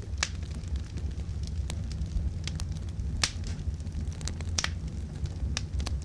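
Wood fire burning, with scattered sharp crackles and pops (about seven, the loudest one about three seconds in) over a steady low rumble.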